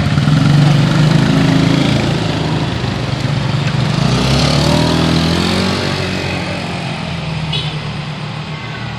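Cars and motorcycles passing close by on the street. One engine is loudest in the first second, then another vehicle goes past about four to five seconds in with its engine pitch shifting, and the traffic fades toward the end.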